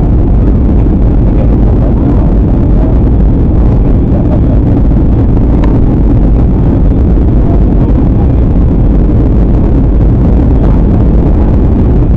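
Jet airliner cabin noise in flight: a loud, steady low rumble of engines and rushing air heard from inside the cabin.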